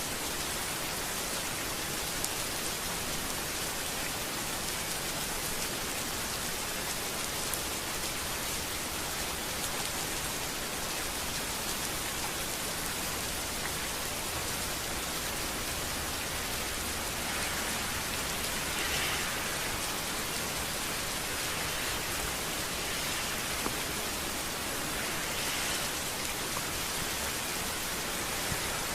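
Steady rain falling on a street: an even, dense hiss with a few scattered drop ticks. The hiss swells briefly a couple of times about two-thirds of the way through.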